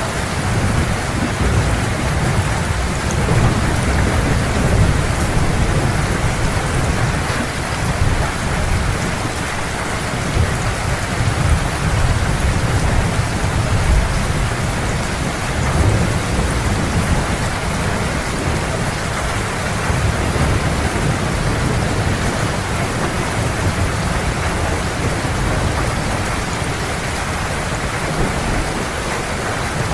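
Heavy rain pouring steadily, with low rolling thunder rumbling underneath that swells and eases.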